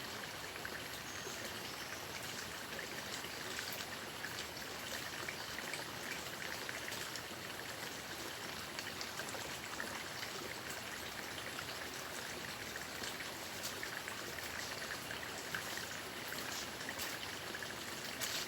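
Flowing water of a small stream: a steady rush with many small scattered ticks and trickles.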